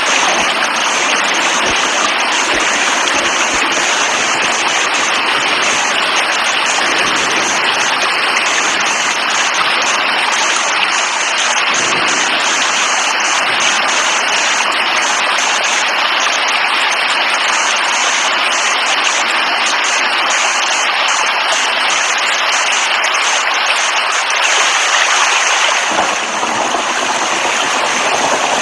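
Steady, unbroken hiss of heavy rainfall, a dense even wash of water noise.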